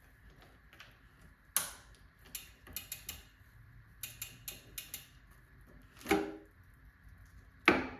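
Irregular sharp metallic clicks and clinks of a bicycle chain being handled while its master link is joined, with two louder snaps near the end.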